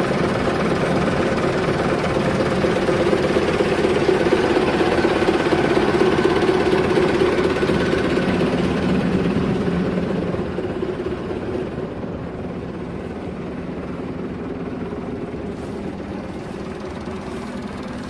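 Belarus tractor's diesel engine running steadily, then growing quieter and duller from about ten seconds in.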